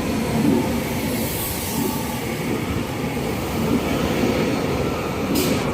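Two coupled Class 331 electric multiple units pulling out of the platform: a steady rumble of wheels and running gear with a faint steady whine. There is a brief high hiss near the end.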